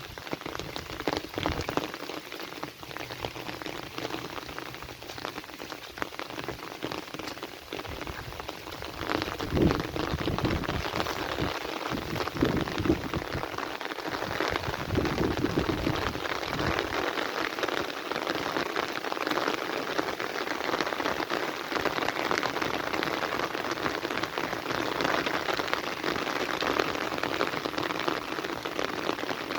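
Heavy rain falling steadily, a dense hiss of drops on surfaces, with a few brief louder surges near the middle.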